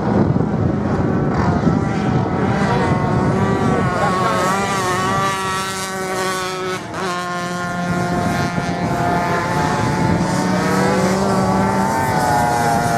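Racing motorcycle engines running at high revs on sand, their pitch climbing and dropping sharply with gear changes, one sharp drop about halfway through.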